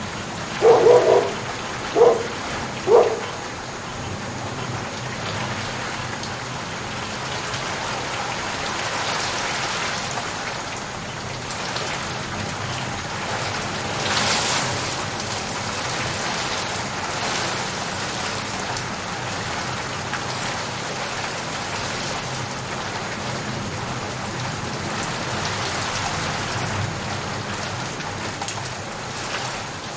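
Steady rain falling, an even hiss. A dog barks three times in the first few seconds, louder than the rain, and about halfway through the hiss briefly swells in a louder rush.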